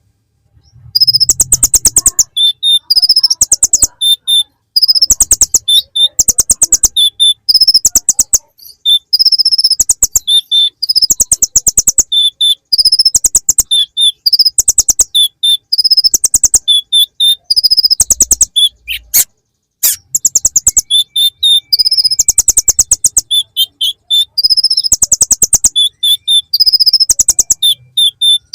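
Kolibri ninja sunbird singing rapid, high-pitched trilled phrases about a second long with short pauses between them, its song filled with imitated bar-winged prinia (ciblek) notes.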